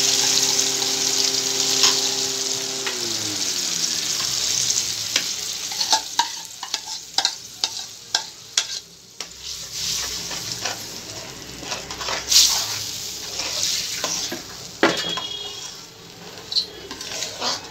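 Ground masala puree sizzling in hot oil in an aluminium kadhai, loudest at the start as it goes in and then settling, with the clicks and scrapes of a spatula stirring it against the pan. A steady hum slides down and stops about three seconds in.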